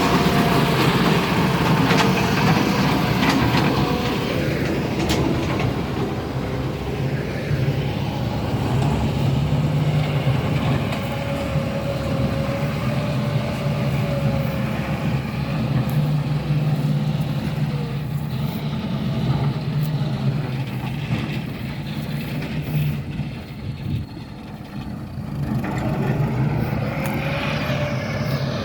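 A motor vehicle's engine running steadily, its pitch drifting up and down a little. It drops back briefly near the end, then picks up again with a rising note.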